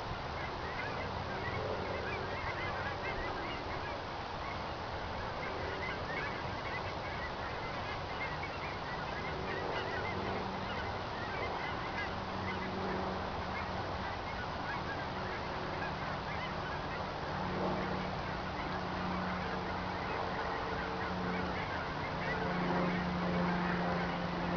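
A large flock of geese in flight, honking continuously as many overlapping calls. A low steady drone comes in during the second half.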